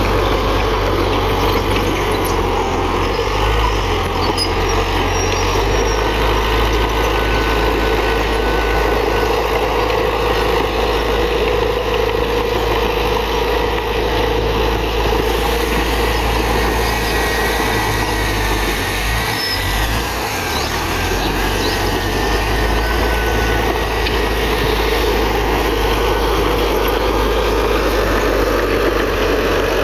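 Komatsu D31PX bulldozer's diesel engine running steadily under load while pushing soil, with a deep rumble. Its note eases briefly about two-thirds of the way through.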